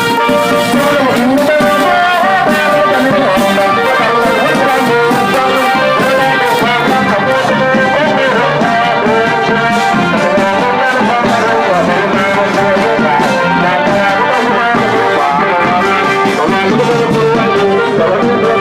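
Thai trae wong brass band playing a continuous tune: brass instruments carry the melody over steady percussion strokes.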